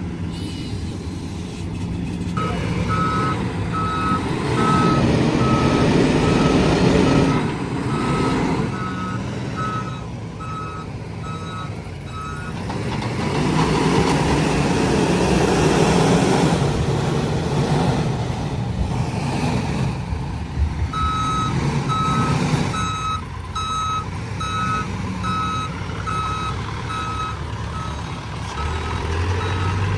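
A heavy machine's reversing alarm beeps about one and a half times a second over a diesel engine that rises and falls with load. The beeping stops about twelve seconds in and starts again about twenty-one seconds in.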